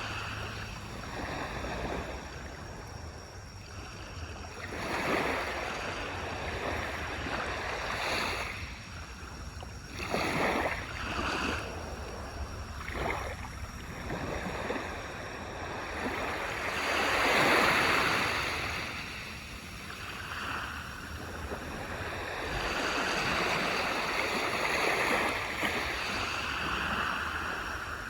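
Small waves breaking and washing up a beach, each wash swelling and fading every few seconds, the biggest about two-thirds of the way through, over a steady low rumble of surf.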